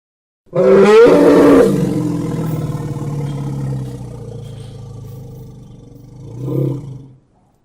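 An elephant's call: a loud, high blaring trumpet lasting about a second, sliding into a long, lower, fading roar. The roar swells once more briefly near the end before stopping.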